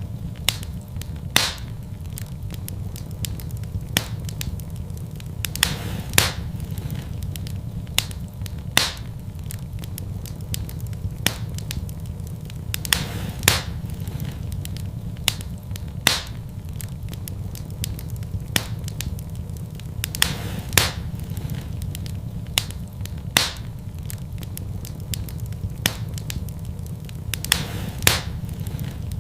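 Wood fire crackling in a fireplace: sharp, irregular pops every second or two over a steady low rumble.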